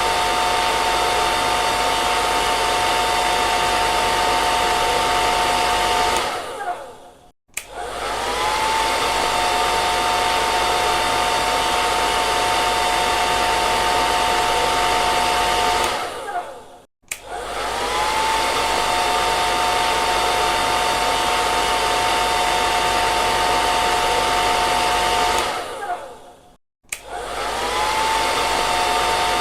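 Hair dryer blowing with a steady whine over the rush of air. Three times it winds down to silence and starts up again, the whine rising as the motor spins up, about every nine and a half seconds.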